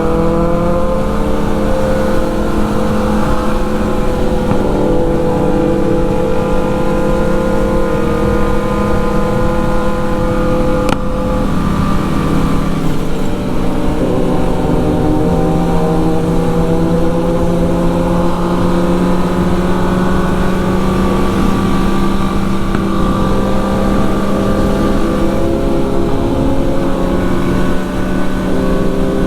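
Sport motorcycle engine running at a steady cruise, its pitch drifting gently up and down as the throttle varies, over a constant rush of wind and road noise.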